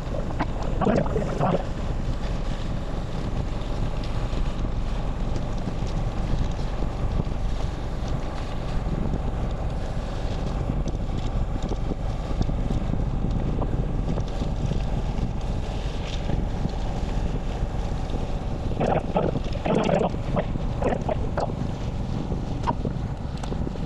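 Steady wind rumble on the microphone of a camera carried through a moving group ride. A few short voices or calls come through about a second in and again near the end.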